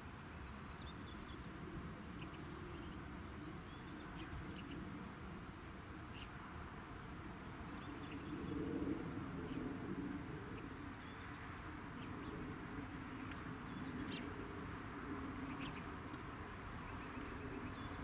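Quiet outdoor ambience: scattered faint bird chirps over a low steady rumble that swells briefly about nine seconds in.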